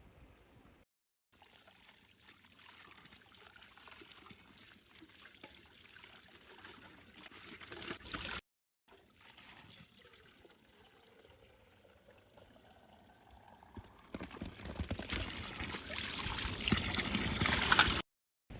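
Water being poured into a container. The pitch rises as the container fills, followed by a louder, rushing stretch of pouring.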